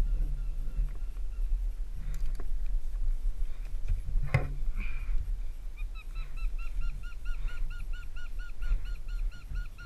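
A bird calling in a fast run of repeated notes, about five a second, starting about six seconds in, while climbing gear knocks against the aspen trunk, loudest about four seconds in.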